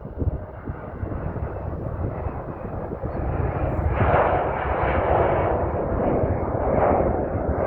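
Airbus A319 jet engines running up for takeoff, a steady rushing engine noise that grows louder about three to four seconds in.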